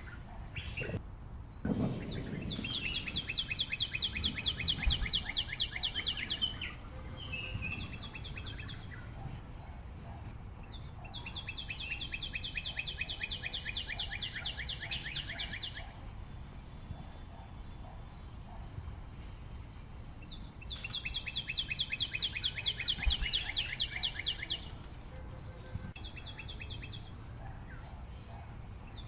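A bird calling in long, rapid high trills, each lasting about four seconds; three long trills come with shorter bursts between them.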